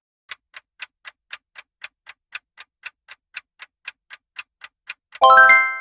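Clock-tick sound effect counting down, about four ticks a second, then a chime with several ringing tones about five seconds in that signals time is up.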